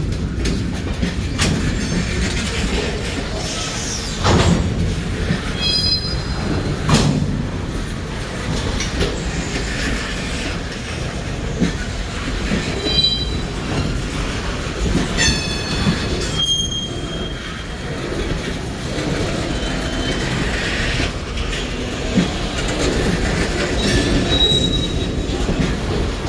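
Train cars rolling past with a steady low rumble and clicks of wheels over the rail joints. Short, high-pitched wheel squeals come and go several times.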